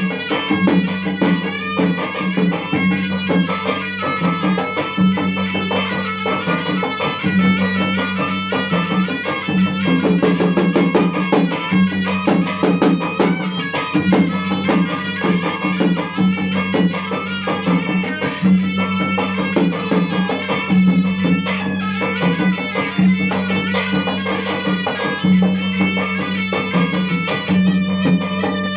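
Traditional Bugis gendang drums played in a fast, steady rhythm, with a reedy melody over a steady low drone.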